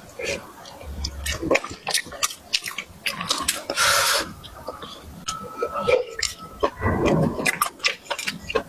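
Close-up eating sounds: chewing with many wet smacks and clicks of the mouth, and a short noisy rush about four seconds in.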